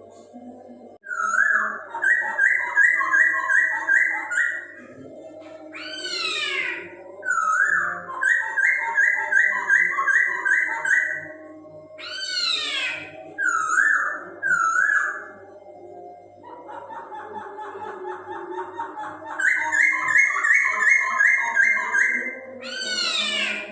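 Poksay Hongkong laughingthrush singing loudly: runs of rapid repeated whistled notes, three steep downward-sweeping calls, and a buzzy trill in the middle, over a faint steady background tone.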